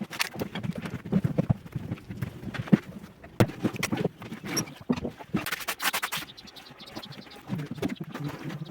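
Irregular knocks, taps and scrapes of hand tiling work, with a short stretch of rasping scraping a little after the middle.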